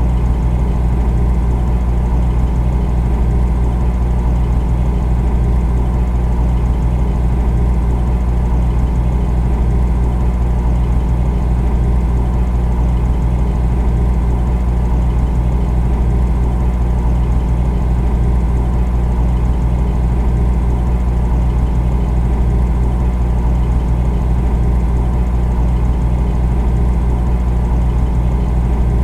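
Refrigerator running: a steady low compressor hum with a faint higher drone above it, unchanging throughout.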